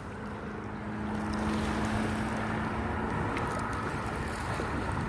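Steady wash of wind and lake water, with a faint low hum through the first few seconds.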